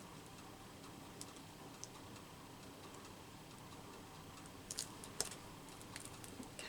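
Faint room tone with a few light clicks and taps from small craft items handled on a desk, a little cluster of them about five seconds in.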